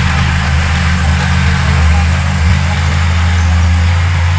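Heavy diesel engine of earthmoving machinery running steadily, its low drone holding one pitch throughout.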